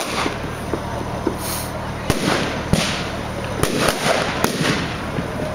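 Fireworks display going off: sharp bangs and crackling reports every half second to second, over a continuous din of further bursts.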